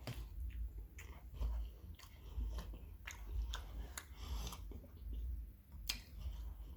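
Close-miked biting and chewing of a homemade Mexican pizza, its crisp tortilla crunching in a string of sharp, irregular crackles.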